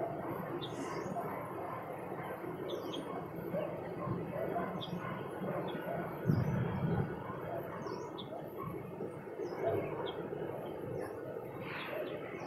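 Small birds chirping with short, scattered high calls over a steady low background din of outdoor ambience. A brief, louder low rumble comes about six seconds in.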